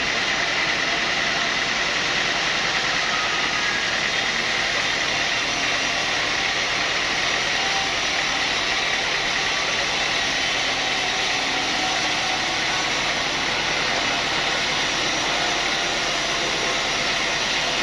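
Sawmill saw running steadily, a continuous even machine noise with a faint high whine held throughout.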